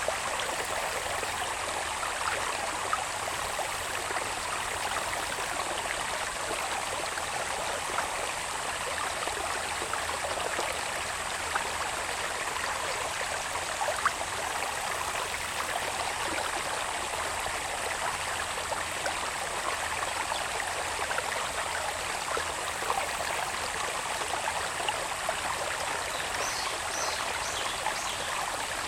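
A small irrigation channel of water running down from the hills, babbling steadily, with a thin steady high insect drone over it and a few short bird chirps near the end.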